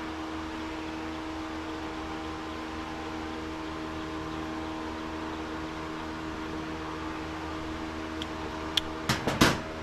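Electric shop fan running with a steady hum. Near the end there are a few sharp clicks.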